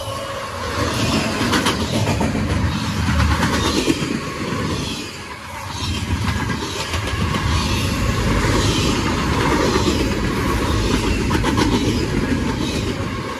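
Double-stack intermodal well cars of a freight train rolling past, steel wheels rumbling and clicking over the rail joints, with a brief dip in the noise about five seconds in.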